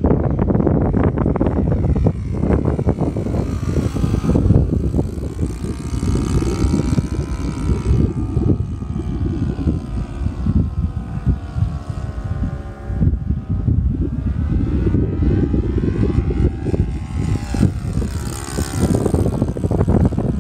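Cessna 182 single-engine propeller plane's engine and propeller droning, with a swishing tone that sweeps up and down as it goes. Heavy wind gusts buffet the microphone.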